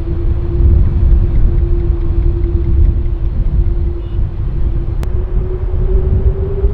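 Jet airliner's engines rumbling deep and loud as the plane passes, with a steady engine whine that rises slightly in pitch in the last couple of seconds.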